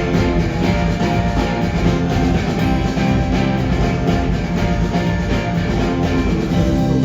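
Live rock band playing an instrumental passage with no singing: electric guitar over bass and a steady drum kit, loud in a large hall.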